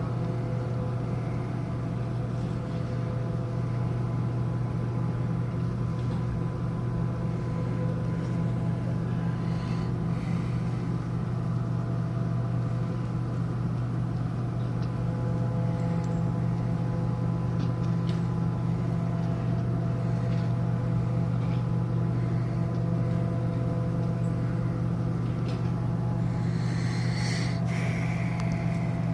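Steady low drone of a cruise ship's machinery during docking: a constant deep hum with a few fainter steady tones above it, unchanging throughout.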